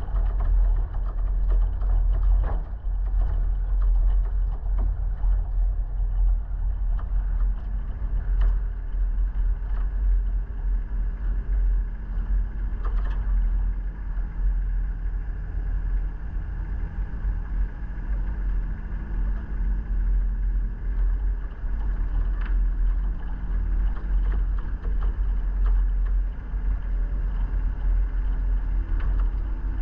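Vehicle driving, heard from on board: a steady low engine and road rumble with a few scattered knocks.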